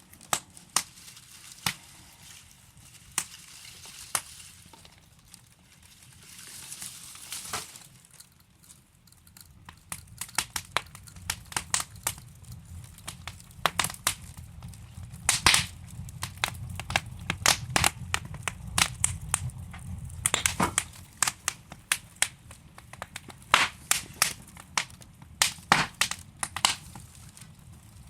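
Burning logs in a fireplace crackling, with irregular sharp pops and snaps. A low rumble of flame swells in the middle and fades again, and a soft hiss comes through early on.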